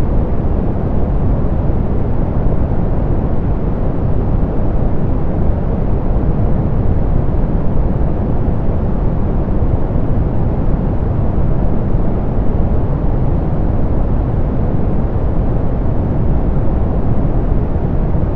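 Steady soft pink noise: an even hiss weighted toward the low end, rumbling and muffled with little treble, unchanging throughout.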